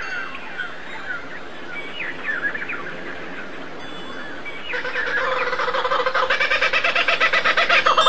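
Birds chirping in short, quick falling notes. About five seconds in, a louder bird call with a fast pulsing rattle and several pitches at once takes over and keeps growing.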